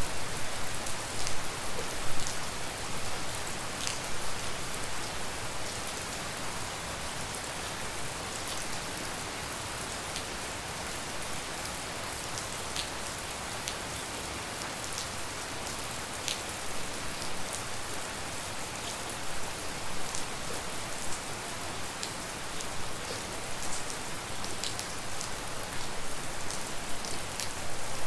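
Steady tropical rain falling, with single drops striking close by as sharp ticks, a little heavier in the first few seconds and again near the end.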